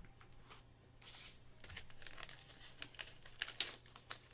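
Trading-card pack wrappers being crinkled and torn open, a faint, irregular run of crackles with a sharper one about three and a half seconds in.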